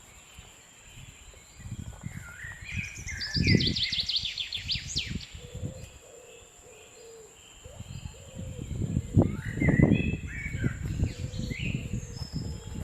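Small birds chirping, with a quick run of rising notes a few seconds in and more scattered chirps near the end. Dull low thumps and rustling come and go underneath, and a thin steady high whine runs throughout.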